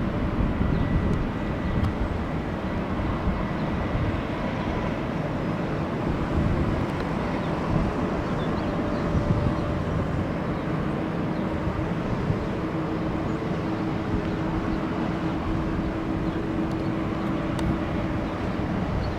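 Airliner jet engines running, a steady rumble with a faint held tone that fades out near the end.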